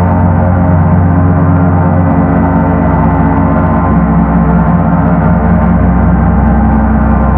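Paiste Sedna gong sounding in a steady, loud rumble: a dense wash of many sustained ringing tones over a deep low hum that swells slightly near the end.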